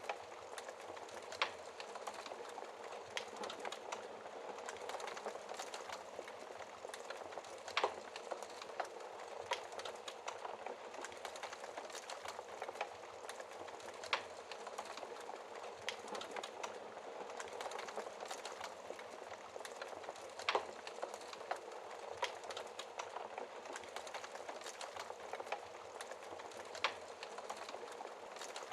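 Fire in a fireplace crackling: a steady hiss with sharp pops at irregular intervals, a few of them louder than the rest.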